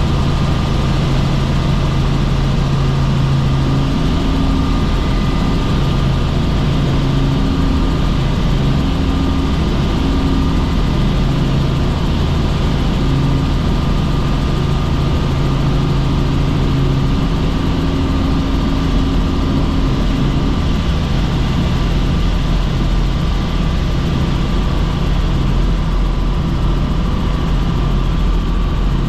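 Helicopter cabin noise in flight: a steady engine and rotor drone with a constant whine above it.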